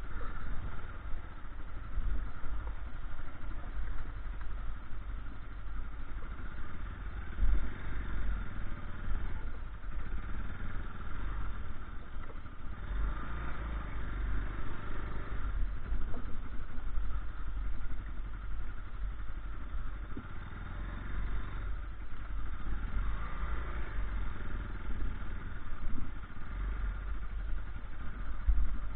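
Motorcycle engine running steadily, with some clattering.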